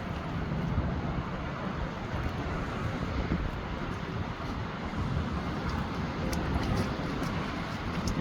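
Wind buffeting the microphone: a steady, gusting rumble with a hiss, from a wind of about 20 miles an hour.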